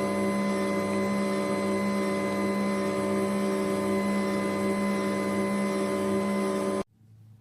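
Electric motor of a cold-press slow juicer running with a steady hum, stopping abruptly near the end.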